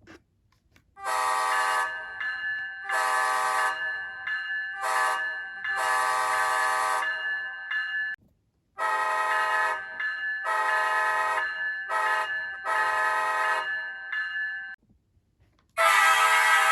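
Diesel locomotive multi-chime air horns played by an ESU LokSound 5 model-train sound decoder. Two different horns each sound the long, long, short, long grade-crossing pattern, with a brief silence between them, and a third horn starts near the end.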